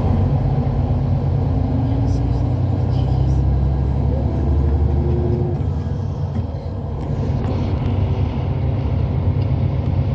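Hyundai Universe coach running on the road, heard from inside the cabin: a steady low rumble of engine and road noise, with the engine note slowly rising for a few seconds in the middle.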